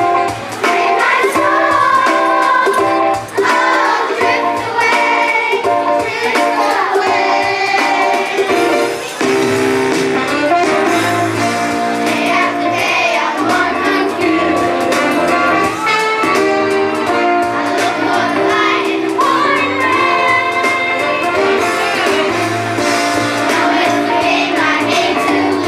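Music performance: voices singing a melody over instrumental accompaniment.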